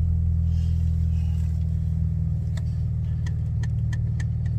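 Car engine idling steadily, with about six sharp clicks in the second half as the gear shifter and its button are worked. The shifter will not go into gear: the car shows a 'Service Shifter' fault after a dead-battery start.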